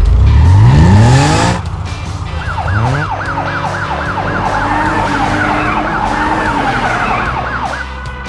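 A car engine revving up hard for about a second and a half, then a police siren wavering up and down quickly, about four cycles a second, for around five seconds.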